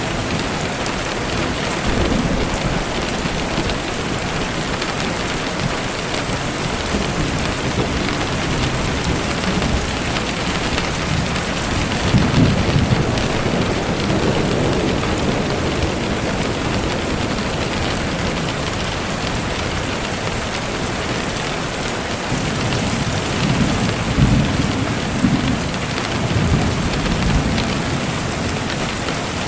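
Steady rain falling, with low rumbles of distant thunder swelling about twelve seconds in and again for a few seconds near the end.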